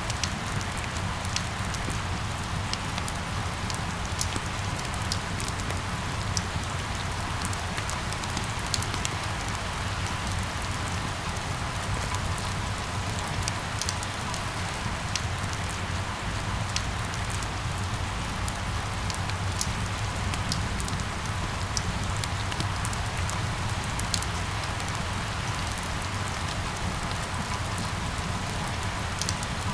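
Steady rain: an even hiss with many individual drops ticking sharply on a hard surface, over a steady low hum.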